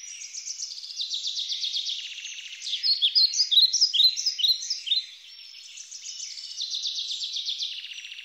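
Small songbirds singing: rapid high trills, with a louder run of quick down-slurred chirps through the middle.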